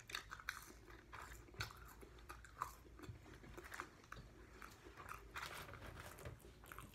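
Faint chewing and biting of fried food, wings and french fries, with many small, scattered mouth clicks and crackles.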